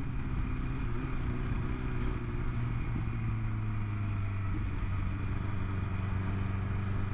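A 2020 BMW S1000RR's inline-four engine, breathing through Akrapovic headers and mid-pipe, running steadily while under way, with wind noise on the helmet-mounted mic. The engine note drops slightly in pitch about three seconds in.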